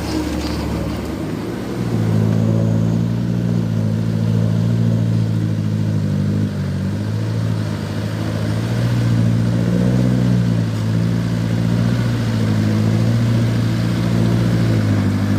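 Loaded palm-fruit truck's engine running under load, strengthening about two seconds in and then holding with small rises and dips in pitch.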